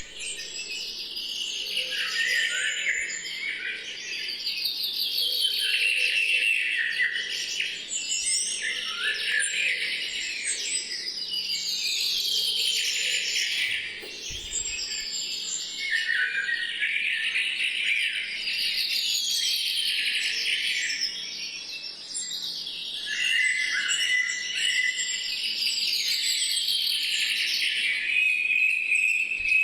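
Dense chorus of chirping birds, the calls swelling and falling every few seconds.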